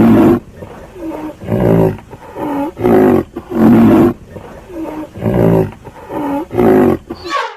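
A large animal giving a rhythmic series of about a dozen loud, deep calls, each under a second long, some dipping and rising in pitch.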